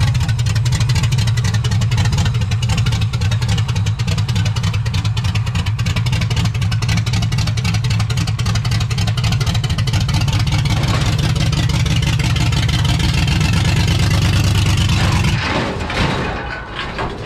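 LS-swapped Chevy Nova's V8 running loud and steady as the car is driven up onto a car trailer, then cutting out about fifteen seconds in: the tank has run out of gas.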